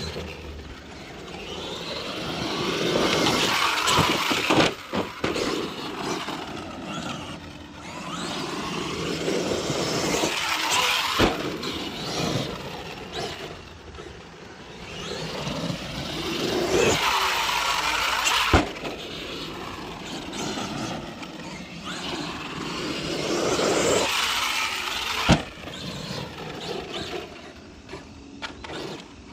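Arrma Outcast 8S 1/5-scale electric RC stunt truck being driven hard: its brushless motor and drivetrain whine swells and fades several times, the pitch rising and falling as it speeds up and slows, with about five sharp knocks from jump landings.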